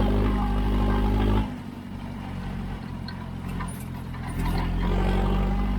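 Kramer Export's Standard Triumph OE138 four-cylinder diesel engine running, louder for about the first second and a half, dropping back, then building louder again near the end.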